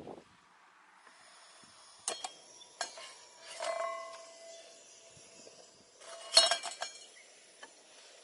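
Metal camp gear being handled: a few separate clinks and knocks with short ringing tones, and the loudest quick cluster of clinks near the end.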